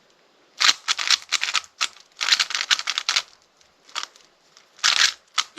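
Speedcube puzzle being turned fast: quick runs of clicking, clacking layer turns, starting about half a second in, with short pauses between the runs.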